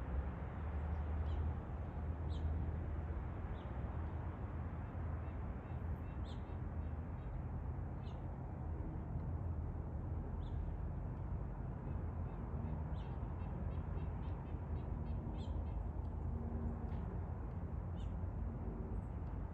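Small birds chirping now and then, with a quick run of chirps partway through, over a steady low background rumble.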